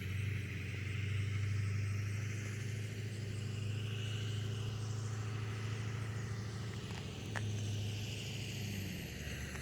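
A motor vehicle's engine running nearby: a steady low rumble, with a hiss that swells and fades twice and a single sharp click about seven seconds in.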